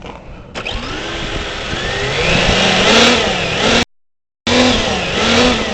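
Tamiya TT-01E electric RC car driving: the motor and gear whine rises and falls as the throttle is worked, over a rushing noise from the tyres on the ground. About four seconds in, the sound cuts out completely for about half a second.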